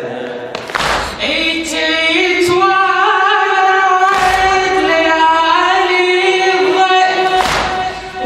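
A latmiya refrain sung in unison by many voices without instruments, each note held long. Three heavy thumps fall about three seconds apart, in time with the chant.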